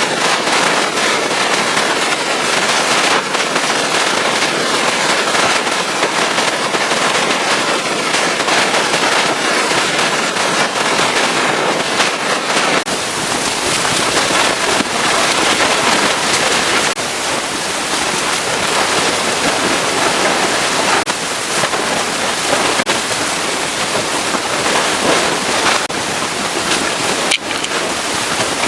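Pressure-washer jet spraying water against a truck's surfaces: a loud, continuous hiss with crackling spatter. The sound shifts abruptly about 13 seconds in and again a few times after.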